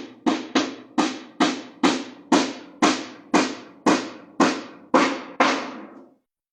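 Hammer blows on wood, a dozen or so sharp strikes at about two a second, slowing a little toward the end, then stopping.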